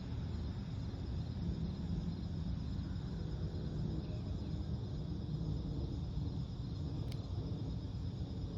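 Crickets trilling steadily in the night-time lakeside ambience, over a low steady rumble. One short faint click about seven seconds in.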